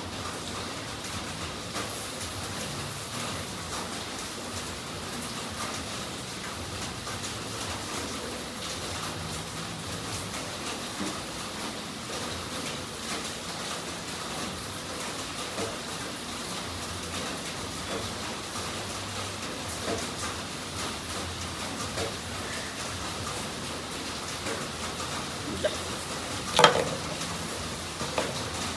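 Steady hiss of rain falling, with a few faint clicks and one sharp knock near the end.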